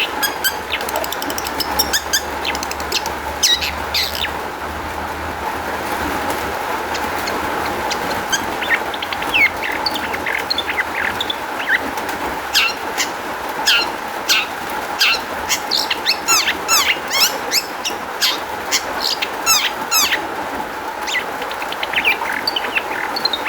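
Long-tailed shrike (cendet) singing a fast, varied song of short chirps and quick sweeping notes, full of mimicked phrases ('isian'), played as a lure to set caged shrikes singing. The notes are sparse at first and come thick and fast from about halfway through, over a steady background hiss.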